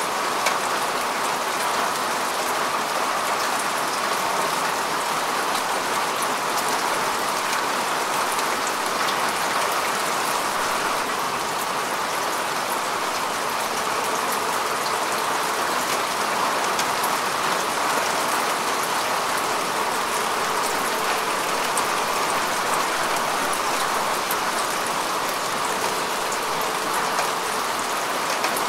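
Steady rain falling on grass and earth: an even hiss of many fine drop patters that does not swell or break.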